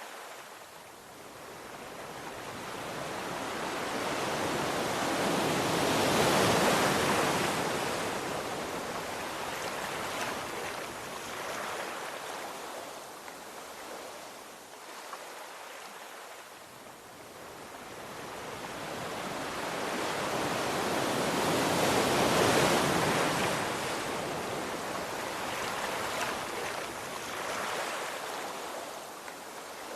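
Ocean waves breaking on the shore: two big waves, each building over several seconds to a peak, about a fifth of the way in and again about three quarters in, then washing back and fading.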